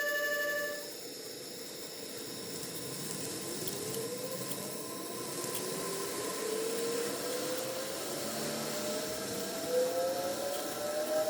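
KATO N-gauge 651 series model train running, its motor whine rising steadily in pitch as it speeds up. A few light clicks come near the end.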